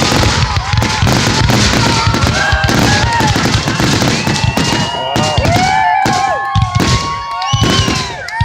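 Fireworks display: rapid, overlapping bangs and crackling bursts.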